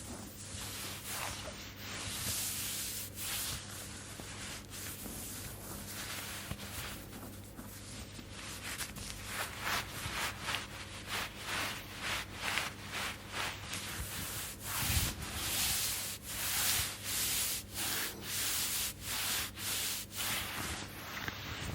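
Close-miked hands rubbing in repeated strokes, as in an oil massage over bare skin. The strokes come quicker and more evenly, about two a second, from about halfway through.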